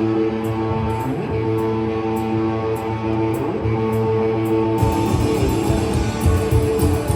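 Live band music: electric guitar chords ringing out over a steady ticking beat, with the full band coming in harder, heavier in the low end, about five seconds in.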